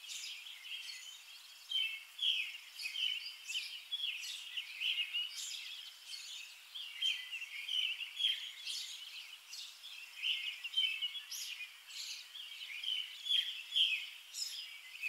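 Small birds chirping and twittering: quick, irregular runs of short, high calls, thin and without any low sound.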